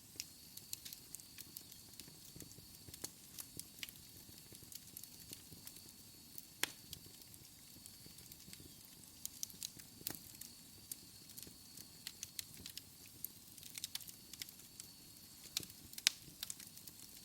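Wood fire crackling in a fireplace: irregular sharp pops and snaps over a faint hiss, with louder pops about six and a half seconds in and again near the end.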